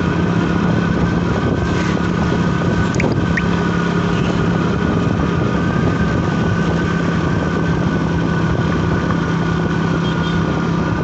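Motorcycle engine running steadily while riding, with a constant low hum.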